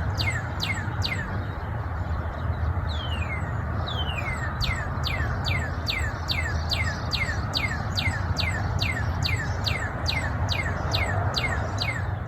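Northern cardinal singing: a long run of clear downslurred whistles repeated about two or three times a second, with a few slower, longer slurs a few seconds in. A steady low rumble of background noise runs underneath.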